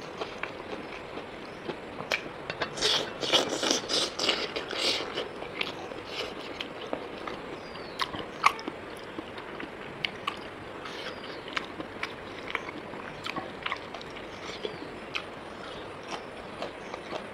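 Close-miked mukbang eating sounds: a person chewing and biting a meal of rice and pork, with many small clicks and scrapes and a denser run of louder bites about three to five seconds in.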